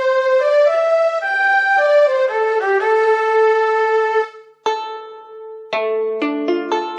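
Yamaha PSR-SX arranger keyboard playing its sampled violin voice: a legato melody of held notes stepping up and down. After a brief break about four and a half seconds in, quick short plucked notes over a lower held note begin near the end.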